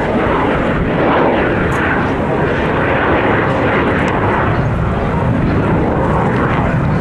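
Loud jet aircraft noise from a display fly-past, a continuous rushing sound whose tone sweeps slowly up and down as the aircraft passes.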